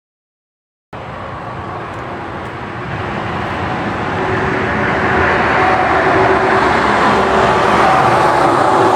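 After about a second of dead silence, a steady vehicle rumble cuts in suddenly and grows louder, with faint steady tones running through it.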